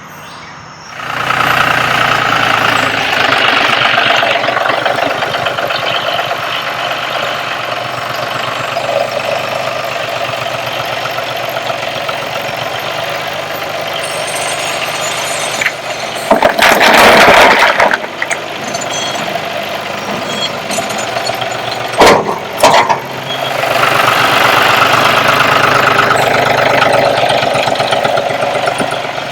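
Tractor engine running steadily as it brings in a load of riprap rock. About halfway through there is a loud noisy rush lasting a couple of seconds, and a few seconds later two sharp bangs.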